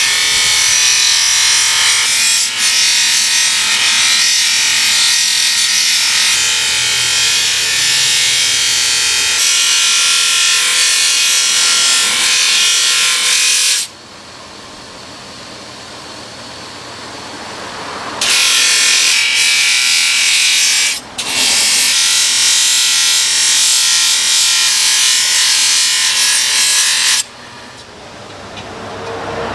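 A power tool running with a steady, harsh high-pitched noise in two long stretches. It stops about halfway through, starts again a few seconds later with a brief break, and stops near the end.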